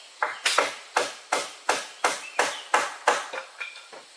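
Rapid, even chopping with a blade, about three strokes a second, stopping a little after three seconds in, followed by a few lighter knocks.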